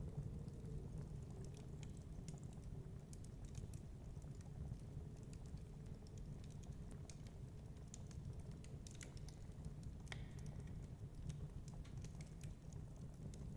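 Wood fire crackling in a fireplace: irregular small snaps and pops over a steady low rumble, with one sharper pop about ten seconds in.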